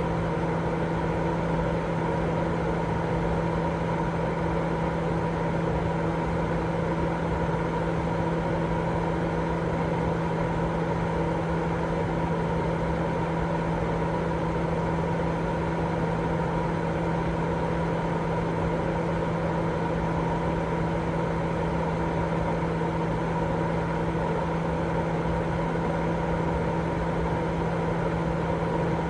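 Continuous white noise for baby sleep: a steady, unchanging rushing hiss with a constant low hum running through it.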